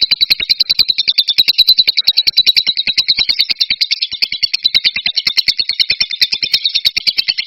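A bird's rapid, buzzy trill, used as a masteran training call for caged songbirds: fast, even pulses, about a dozen a second, repeated without a break.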